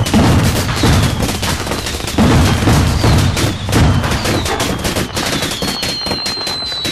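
Fireworks going off: a dense rapid crackle with a heavy boom about every second, and whistles gliding down in pitch, one long whistle near the end.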